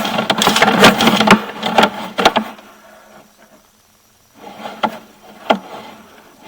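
Sewer inspection camera and its push cable being fed down a drain line, scraping and knocking irregularly for a couple of seconds, going quiet, then a few separate knocks near the end.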